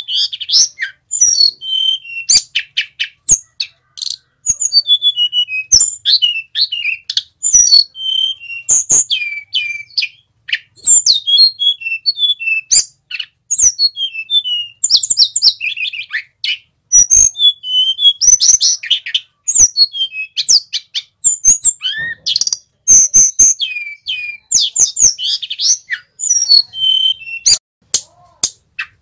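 Male hill blue flycatcher (sulingan gunung) singing continuously: rapid, varied whistled phrases and trills in quick succession, with sharp clicks between them.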